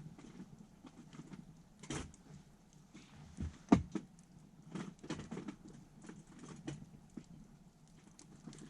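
Wood campfire crackling, with irregular sharp pops and snaps, the loudest a single crack about four seconds in.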